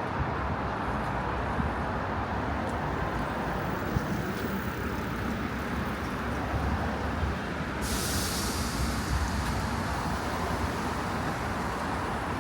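Steady low rumble of a public transport vehicle in motion. About two-thirds of the way in, a loud steady hiss of air starts suddenly and keeps going.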